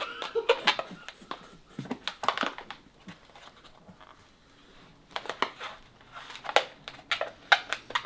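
Latex modelling balloon being twisted and rubbed by hand: bursts of crinkling, rubbing strokes, with a quieter gap in the middle.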